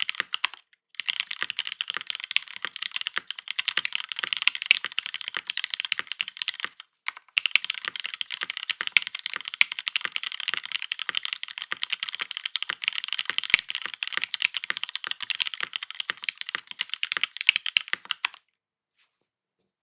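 Fast typing on a KMG B65 mechanical keyboard with Cherry MX Black linear switches, GMK Serika keycaps and a full aluminium plate: a dense stream of keystrokes. There are two short pauses, and the typing stops near the end.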